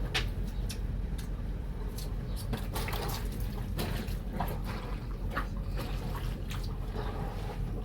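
Wet laundry being worked by hand in a basin of soapy water: irregular splashes and sloshes, over a steady low rumble.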